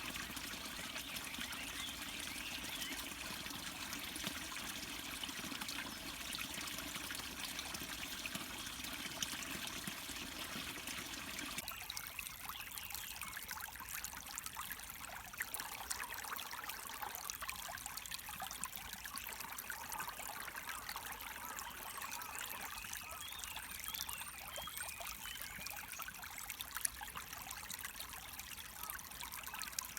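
Stream water trickling and splashing. About twelve seconds in, the sound changes abruptly to a lighter trickle, with small birds chirping over it.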